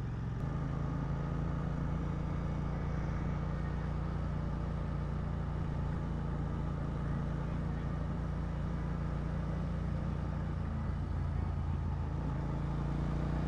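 Royal Enfield Interceptor 650's parallel-twin engine running steadily at cruising speed, heard from the rider's own bike with road and wind noise over it. Its pitch shifts slightly near the end.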